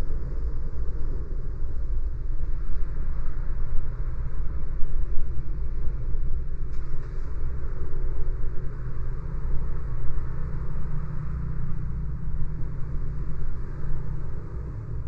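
A car driving along city streets: a steady low rumble of road and engine noise that eases off a little near the end.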